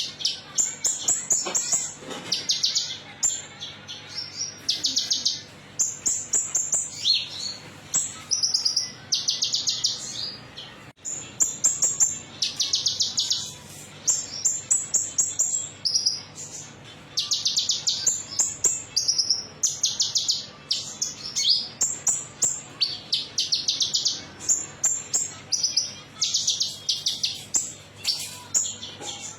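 Konin songbird singing a bright, metallic-sounding song of rapid high trills and chattering phrases, repeated again and again with short gaps, as used for a bird-keepers' lure recording.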